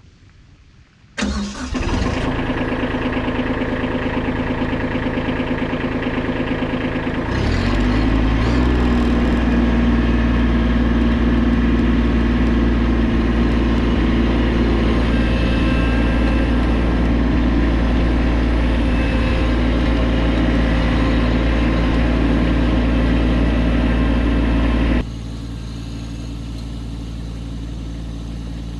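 Kubota tractor's diesel engine starting about a second in and running steadily. A few seconds later the throttle is raised and it runs louder. Near the end it drops abruptly to a quieter run.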